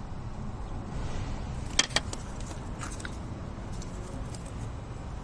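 Two sharp clicks close together about two seconds in, with a few fainter ticks, from parts being handled during repair work on the engine. A steady low hum runs underneath.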